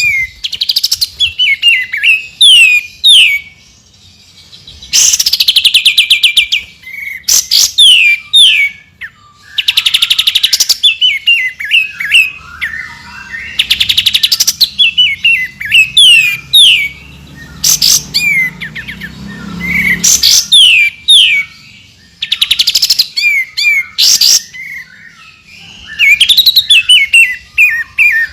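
Songbird masteran of 'tembakan' phrases: loud, rapid bursts of notes every few seconds alternating with series of quick falling whistles.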